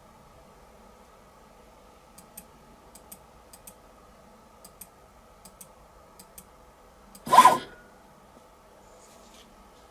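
Light scattered clicks of metal tools at a small CNC mini-mill over a faint steady hum, then one loud rasping burst about half a second long, about seven seconds in.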